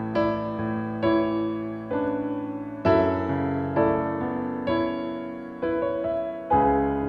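Background piano music: slow, gentle notes and chords struck about once a second, each left to ring and fade.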